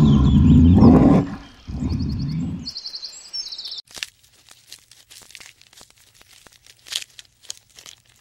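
An animal's loud low call, twice, with birds chirping over it, followed by a run of crunching, crackling clicks.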